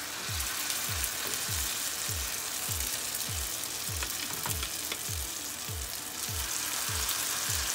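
Saltfish fritter batter sizzling in hot frying oil as spoonfuls are dropped into the pan, a steady hiss with a few sharp crackles. A low thump repeats about two to three times a second underneath.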